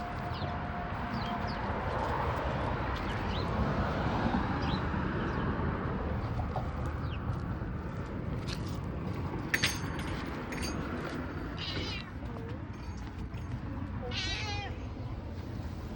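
A cat meowing in short calls, then one longer, wavering meow near the end, over steady background noise. A few sharp clicks come a little past the middle.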